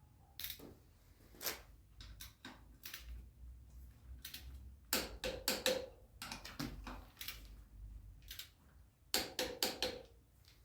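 Irregular sharp clicks and knocks of metal tools and parts being handled, with two quick runs of clicks about five and nine seconds in.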